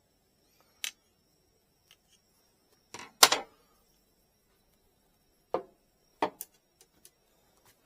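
A few separate sharp clicks and knocks of objects being handled and set down, the loudest a double knock about three seconds in.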